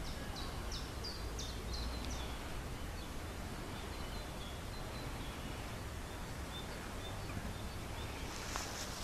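A small songbird singing a quick run of about seven high, falling chirps in the first two seconds, then fainter high notes, over a steady low background rumble. Near the end, loud rustling steps through dry grass begin.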